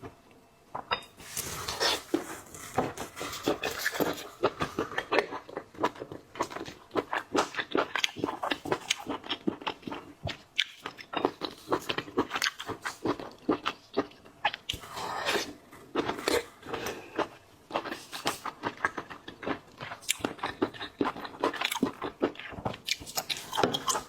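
A person chewing and biting into seafood: a dense run of crackling clicks and crunches.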